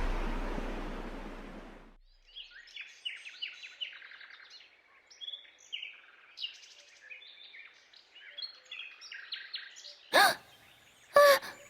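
Birds chirping and twittering, many short quiet calls, after a loud crash-like noise dies away over the first two seconds. Near the end, two short vocal sounds about a second apart.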